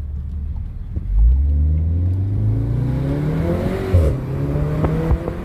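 VW Golf 7 R's turbocharged 2.0-litre four-cylinder engine accelerating hard. The note jumps louder about a second in and climbs in pitch for about three seconds, then changes abruptly around four seconds in and holds steadier, with a few sharp cracks.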